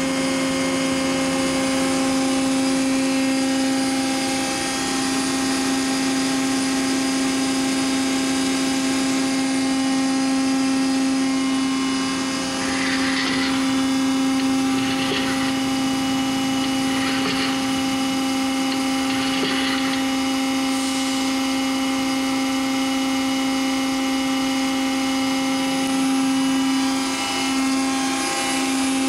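Hydraulic power unit of an Eaton Leonard VB300 CNC tube bending machine running with a steady hum. Four short hisses come at intervals about midway.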